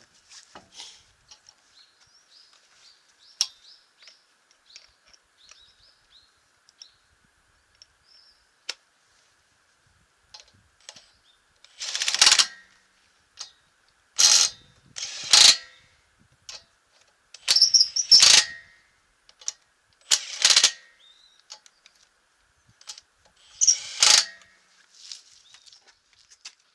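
Makita 18V cordless impact wrench run in about seven short bursts on a car's lug nuts. Light clinks and ticks of handling tools and nuts come first.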